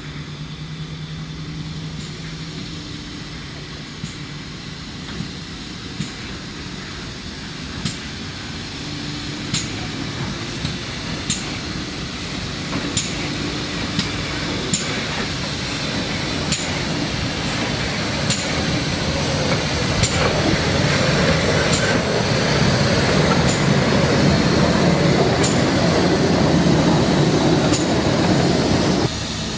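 Railway train running on jointed track: a sharp wheel click over a rail joint comes about every two seconds under a steady running noise. The running noise grows louder from about twenty seconds in, and the sound cuts off abruptly near the end.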